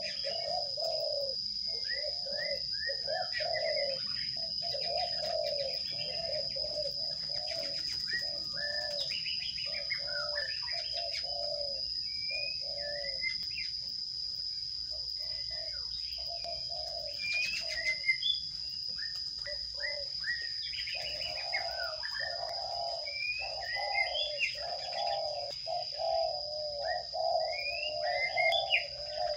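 Small birds chirping in quick short notes, over the low, rhythmic cooing of a dove that grows busier in the second half. A steady high-pitched tone runs beneath.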